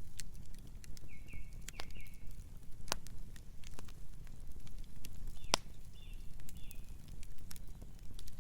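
Campfire burning with a low steady rumble and irregular crackles, with two sharper pops about three and five and a half seconds in. A few short high chirps sound twice over the crackling.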